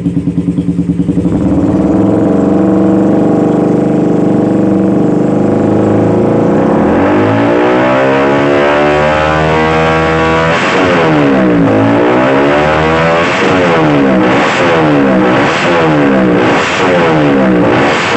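Suzuki Raider 150 motorcycle with an aftermarket exhaust, running at idle and then revved: one long rise and fall in engine speed about seven seconds in, then a string of short throttle blips about once a second.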